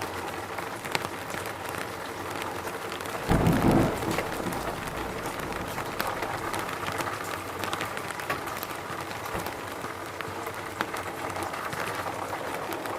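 Steady rain falling, with many separate drops ticking, and a short low rumble about three seconds in.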